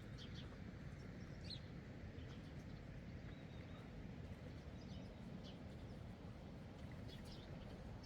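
Outdoor ambience: a steady low background rumble with scattered short, high bird chirps.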